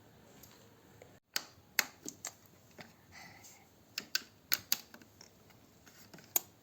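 Faint room noise, then after a short break a run of irregular, sharp clicks and taps, about a dozen over five seconds.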